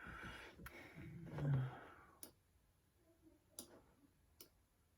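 A few short, sharp clicks of a computer mouse, spaced irregularly about a second apart, with a faint low murmur in the first two seconds.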